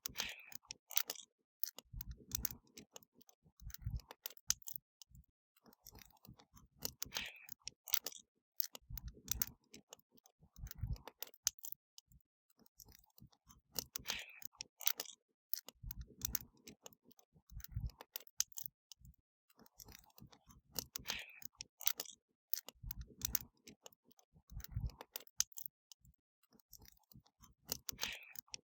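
Wood fire crackling with many sharp pops and snaps, and every few seconds a soft hissing flare. A pair of low thuds about two seconds apart comes back in the same pattern roughly every seven seconds.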